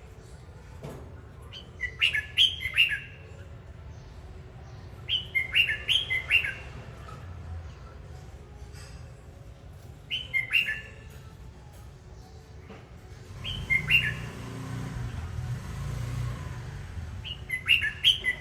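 Red-whiskered bulbul singing: five short, quick warbled phrases a few seconds apart. A soft rushing noise rises under the fourth phrase and fades about three seconds later.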